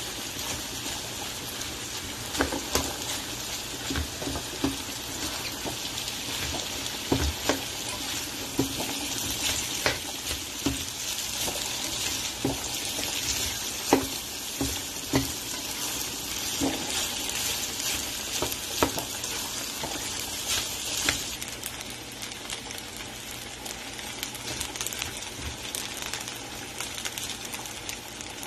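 Fried rice sizzling in a hot pan while a spatula stirs and scrapes it, with irregular clicks and knocks of the spatula against the pan.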